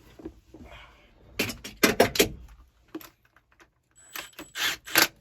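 Wrench clinking and clicking on the steel hydraulic line fittings as they are tightened. A quick run of sharp metallic clicks comes about a second and a half in, then scattered clicks and short scrapes near the end.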